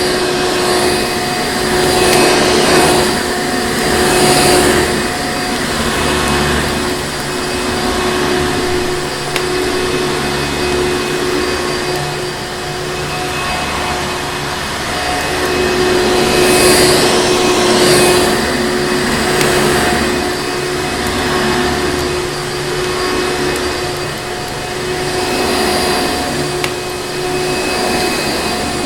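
Vacuum cleaner motor running steadily: a constant whine over a rushing air hiss that swells and eases now and then.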